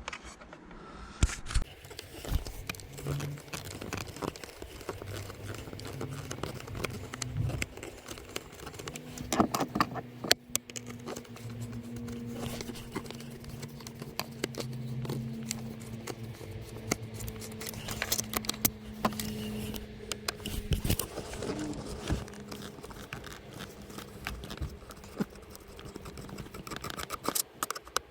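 Repeated small clicks and scrapes of a screwdriver and the plastic housing of a Vauxhall Corsa C door mirror, as the three screws holding the mirror motor are undone. A faint steady low hum runs underneath for a while in the middle.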